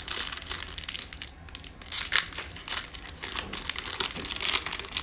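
Foil wrapper of a 2020 Mosaic football card pack being crinkled and torn open by hand, in irregular crackling bursts, loudest about two seconds in and again near the end.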